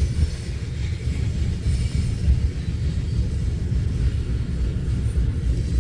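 Coal cars of a long freight train rolling past, a steady low rumble of wheels on rail.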